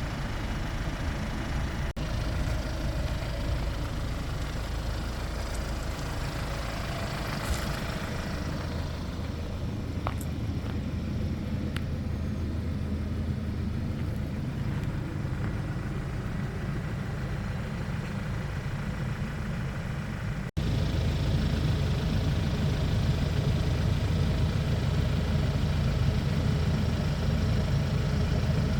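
Hyundai Porter 2 light truck's diesel engine idling steadily; the sound steps up louder about two-thirds of the way in.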